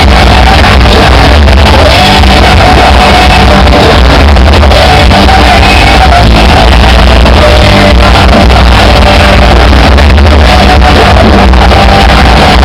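Rock band playing live with vocals, heard from the audience, very loud and pinned at full level throughout.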